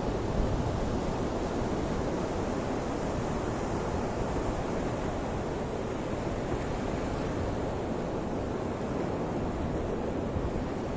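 Ocean surf: a steady wash of breaking waves with wind buffeting the microphone.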